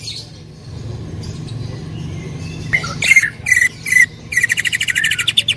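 Cucak ijo (green leafbird) singing loud 'tembakan' bursts. About three seconds in come several sharp, ringing calls, then a rapid trill of roughly ten notes a second near the end, over a steady low hum.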